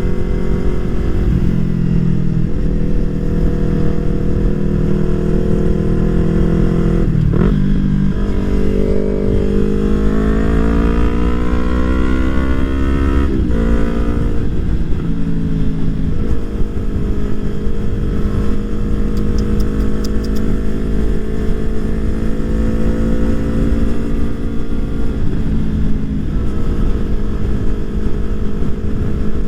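2020 Yamaha R3's 321 cc parallel-twin engine through a full exhaust, riding along. It runs steadily, changes pitch with a gear change about seven seconds in, then revs climb for several seconds until a shift drops them sharply, and it settles into steady cruising, with wind rumble on the microphone.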